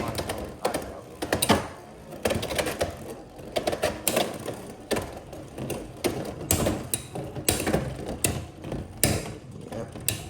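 Two Beyblade X spinning tops battling in a plastic stadium, with fast irregular clattering and clicking and sharper hits now and then as they collide and scrape around the bowl. The spinning tops are Silver Wolf 1-60 Rush and Shark Scale.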